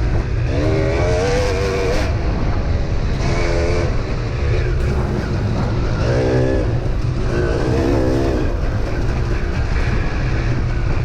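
Dirt bike engine revving up and down in several bursts under a heavy, steady rumble of wind on the microphone.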